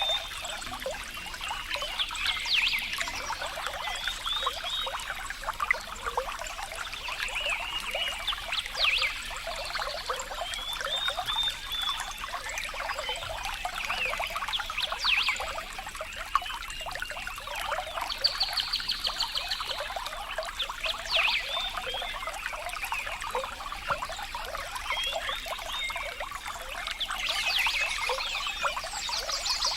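Running water trickling and splashing without a break, with short high-pitched animal calls coming in every few seconds over it.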